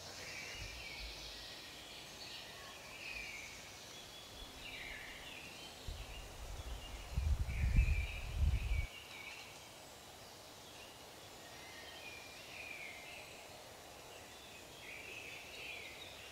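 Birds chirping and singing on and off, over a steady outdoor hiss. About six seconds in, a low rumble lasting about three seconds rises over it and is the loudest sound.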